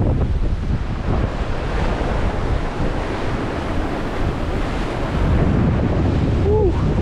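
Gusty wind buffeting the microphone, a steady low rumble over the wash of waves at an inlet, with a brief squeak near the end.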